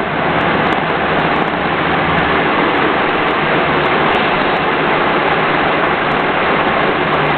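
Honda ST1100 Pan European's V4 engine running under a steady rush of wind and road noise on the bike-mounted microphone.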